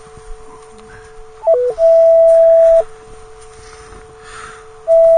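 Metal detector's audio: a faint steady low threshold tone, broken about a second and a half in by a loud higher tone that flips briefly between two pitches and then holds for about a second, and again near the end. It is the signal of a coin target, which the detectorist takes for a penny or a dime.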